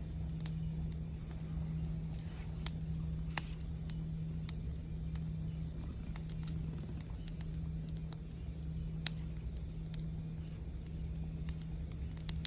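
Campfire crackling: scattered sharp pops and snaps, several a second at times, over a steady low hum.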